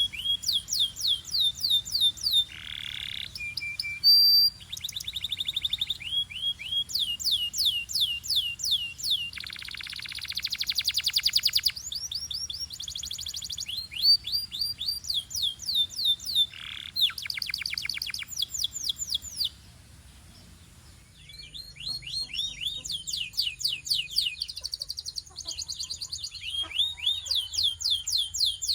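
Belgian canary singing a long, fast song: rapid rolls of repeated falling whistled notes alternating with dense buzzing trills, with a brief pause about two-thirds of the way through.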